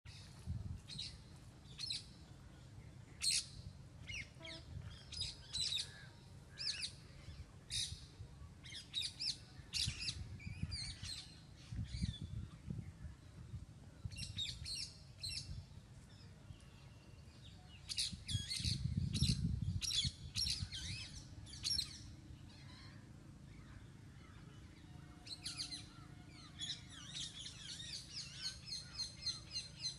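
Small birds chirping, with many short, sharp high calls, and near the end one bird repeating a note rapidly, about three times a second. A low rumble swells now and then underneath.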